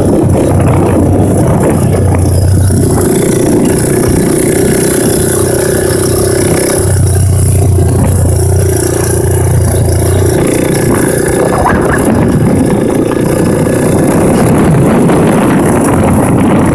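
Honda ATC 200X's single-cylinder four-stroke engine running loudly through an aftermarket DG exhaust while the three-wheeler is ridden, its note shifting every few seconds with throttle.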